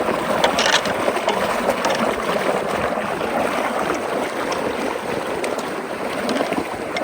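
Water rushing steadily through a culvert after its leaf clog has been cleared, a loud, even rush with a brief splash about half a second in.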